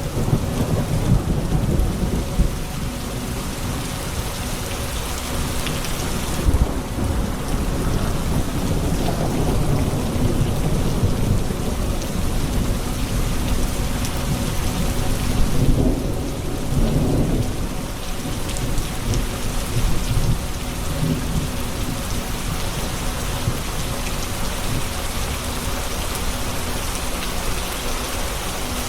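Thunderstorm: steady rain falling with low rolling thunder underneath, the rumble swelling near the start and again about halfway through.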